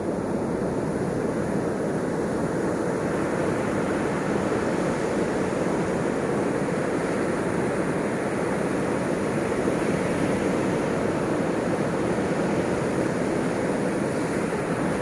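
Ocean surf washing on a shore in a steady, continuous rush, with no separate wave crashes standing out.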